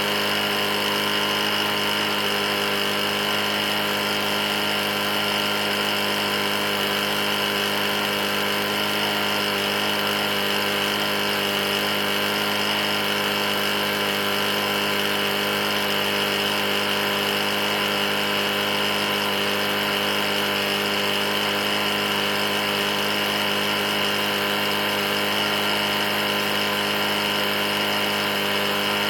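Briggs & Stratton E450 single-cylinder engine on a push mower running steadily at speed without change. The engine has a bad knock, having been run almost out of oil.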